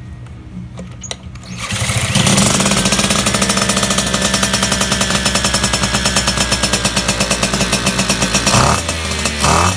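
Two-stroke Piaggio moped engine with a Polini crankcase and a Yamaha Jog CDI box: idling quietly at first, then revved hard about two seconds in and held at high revs with a fast, even pulsing, dropping briefly near the end before picking up again.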